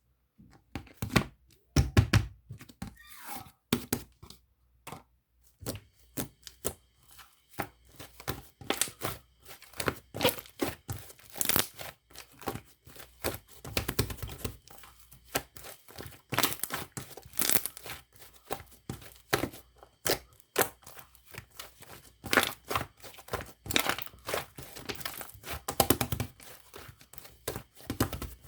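Cloud slime being stretched and pulled apart, with irregular soft tearing and crackling sounds.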